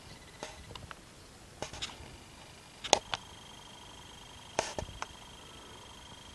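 Scattered sharp taps and clicks from small wild animals, mostly in twos and threes. The loudest come about three seconds in and again a little before five seconds.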